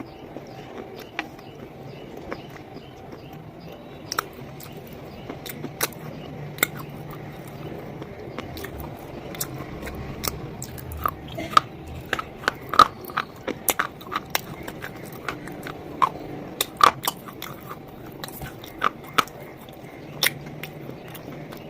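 Close-miked biting and chewing of a hard, crunchy black bar: sharp crunches, scattered at first, then coming thick and fast in the middle, with quieter chewing between them.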